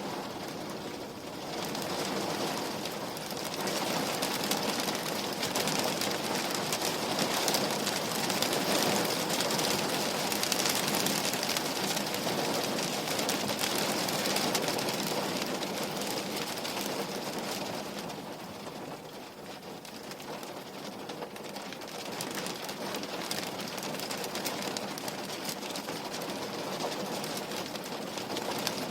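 Steady rain hitting a window pane, a dense even patter that swells louder for a while and eases off briefly past the middle.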